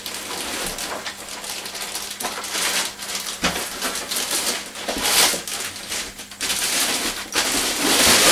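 Plastic packaging and polystyrene packing crinkling and rustling as an RC plane's foam fuselage is handled and lifted out of its box. The crackling swells near the end.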